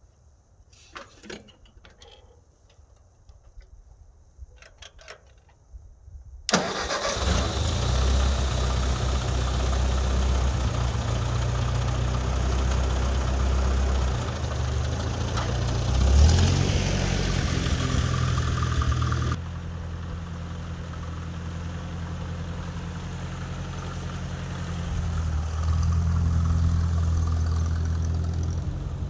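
A few faint knocks, then about six seconds in the Ford 640 tractor's four-cylinder engine starts and runs steadily with a deep, even note, briefly rising in speed about halfway through and picking up again near the end.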